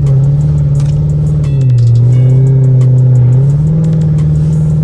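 Dodge Charger's engine running as the car pulls away, under loud music with a deep bass line that steps between notes.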